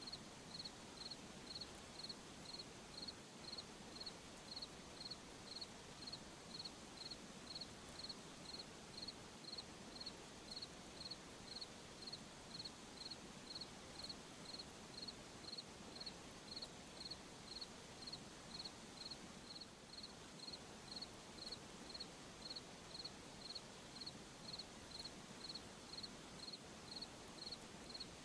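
A cricket chirping in a steady, even rhythm, a little under two high chirps a second, over a faint background hiss.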